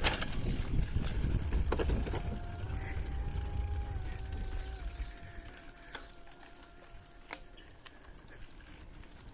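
Mountain bike rolling over a rough trail: a heavy low rumble of tyres and wind on the microphone for the first half, with a few sharp knocks from the bike. A faint steady hum shifts in pitch partway through.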